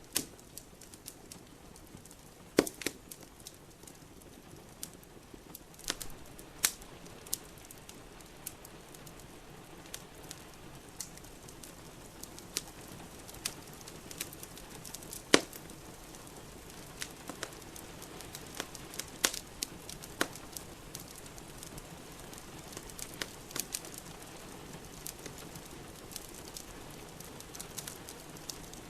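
Wood fire in a fireplace crackling, with irregular sharp pops, the loudest about two and a half, fifteen and nineteen seconds in, over a steady hiss of rain.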